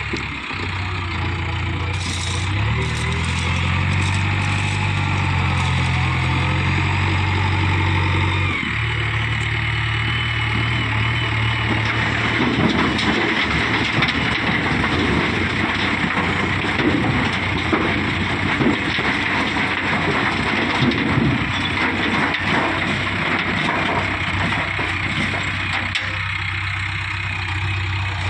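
Heavy diesel engine of earthmoving machinery running close by, its note shifting about eight seconds in. From about twelve seconds on it is joined by a rougher, clattering noise.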